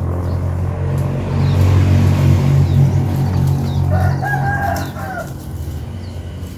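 A rooster crows once, a wavering call about a second long, starting about four seconds in. Under it runs a steady low rumble that is loudest in the first half and fades after the crow.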